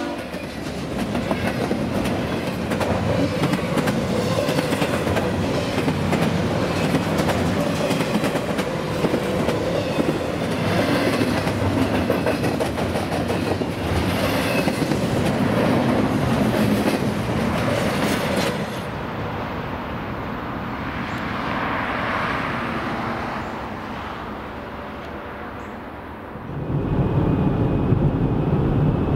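Double-stack intermodal freight train passing close by, its well cars rattling and the wheels clicking over the rail joints. About two-thirds of the way through the sound drops and grows duller. Near the end it gives way to the low road rumble of a car driving.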